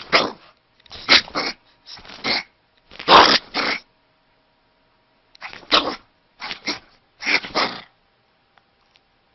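A dog giving a series of short, noisy vocal sounds, several in quick pairs, with a pause of about a second and a half in the middle.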